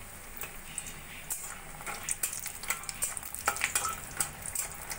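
Bori (sun-dried lentil dumplings) frying in hot oil in a kadai, a light sizzle with scattered crackles, while a spatula stirs and scrapes them around the pan.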